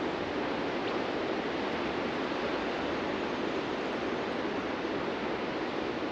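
Ocean surf washing steadily onto a beach, a continuous rushing noise without distinct single wave crashes.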